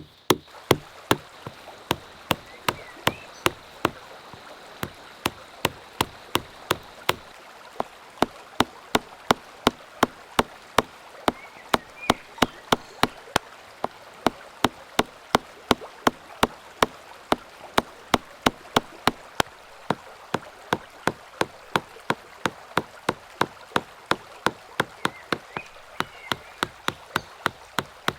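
Wood carving taps: evenly spaced sharp knocks, about two to three a second, like a mallet striking a chisel into wood, over a steady hiss like running water with a few brief chirps.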